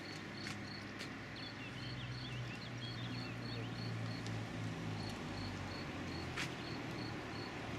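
Cricket chirping steadily, a short high chirp about three times a second, over a low steady hum.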